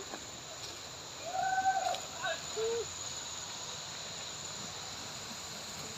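Steady rushing noise of a waterfall, with a thin, high, steady whine above it. A short snatch of voice comes through about a second and a half in.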